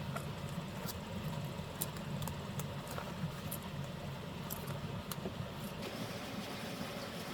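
A steady low rumble with scattered, irregular sharp clicks and crackles over it.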